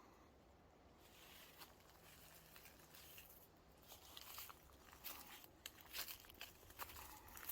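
Faint, irregular crunching and crinkling of footsteps or brush in dry leaf litter, sparse at first and growing busier from about four seconds in.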